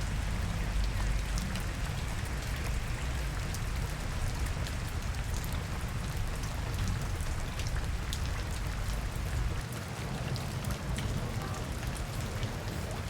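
Steady rain falling, with many individual drops ticking sharply on nearby surfaces, over a constant low rumble.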